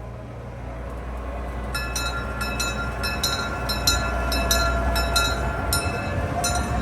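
Tourist train running with a steady low rumble; from about two seconds in, a run of sharp metallic rings sounds about twice a second.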